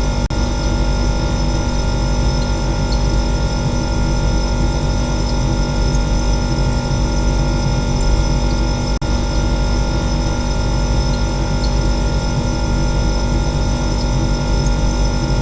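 Refrigerator running: a steady, unbroken hum made of several constant tones over a strong low drone.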